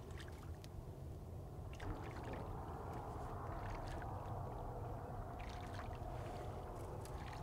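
Water splashing and sloshing in a shallow pond, growing steadier from about two seconds in, with scattered small splashes and clicks.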